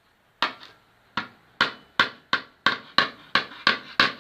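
Hammer blows on a homemade tool, knocking up a car body panel from underneath: a run of ringing metallic strikes, about three a second, that get quicker and louder after the first second.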